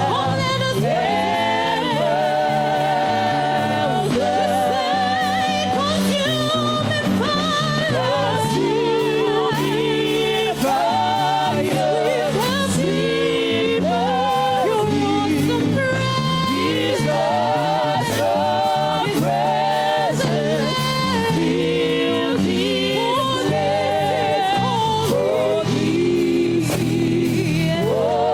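Gospel worship music: singing with a wavering vibrato over sustained low accompaniment.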